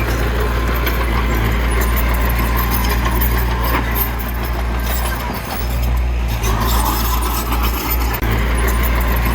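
Diesel engine of heavy earthmoving machinery running steadily with a deep drone, light clatter and scraping over it.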